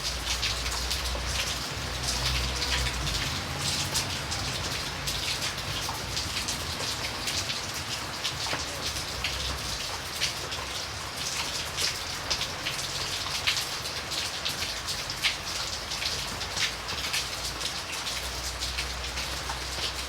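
Steady rain, with many separate drops striking close by over an even hiss. A low rumble underneath comes and goes, strongest in the first few seconds and again near the end.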